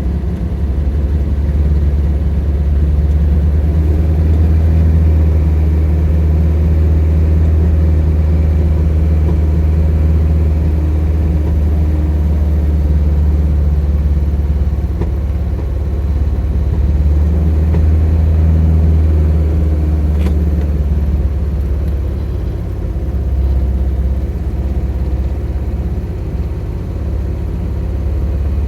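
Triumph Spitfire Mk II's 1147 cc four-cylinder engine idling on choke after a cold start, running steadily with slight rises and dips in speed.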